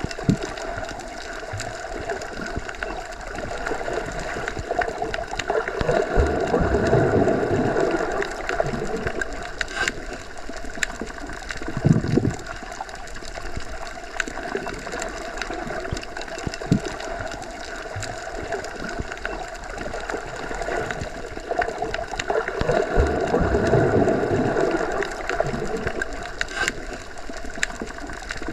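Underwater ambience: a muffled, steady wash of water. It swells slowly twice, and a few dull thumps sound through it, the loudest about twelve seconds in.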